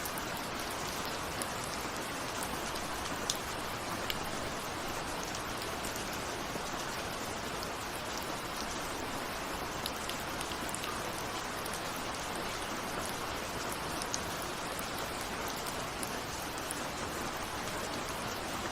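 Steady rain falling, with individual raindrops ticking sharply here and there over an even hiss.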